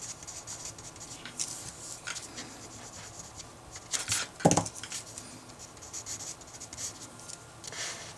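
Writing on paper: a run of short scratchy strokes as a math expression is written out, with one louder knock on the desk about four and a half seconds in.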